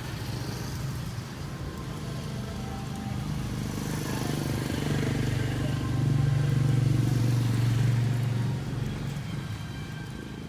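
A motor vehicle passing by: its engine hum and tyre noise grow louder over several seconds, peak about six to eight seconds in, then fade away.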